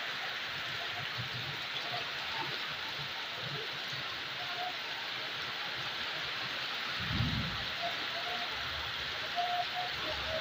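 Heavy rainstorm: a steady hiss of rain pouring onto roofs and wet concrete, with a brief low rumble about seven seconds in.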